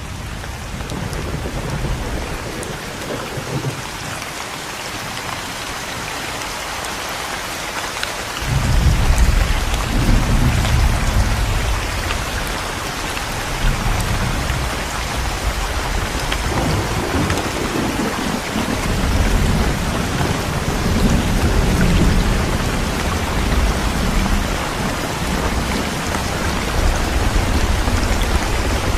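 Steady heavy rain with thunder: a deep rumble breaks in suddenly about eight seconds in, and further rolls of thunder swell and fade through the rest of the rain.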